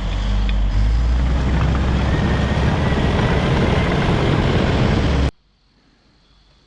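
Caterpillar D5 wide-track bulldozer's diesel engine running steadily with a heavy low rumble, cutting off abruptly about five seconds in, followed by near silence.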